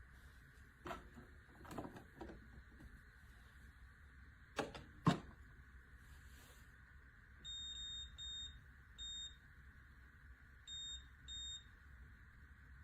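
A few light clicks and two sharper knocks, then five short, high electronic beeps from a De'Longhi TrueBrew coffee maker: three in quick succession, a pause, then two more.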